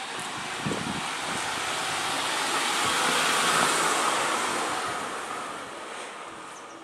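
A vehicle passing by: a broad rushing noise that swells to a peak about halfway through and then fades away, with a few faint clicks near the start, like the clicking the Sony NEX-5N's internal microphone picks up.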